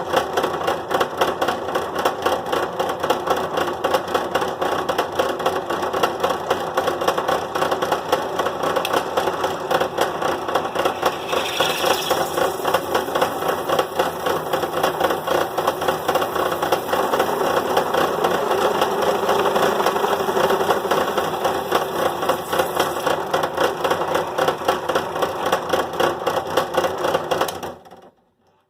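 Drill press running with a bit boring a larger hole through a plastic box: a steady rattling machine noise that cuts off suddenly near the end.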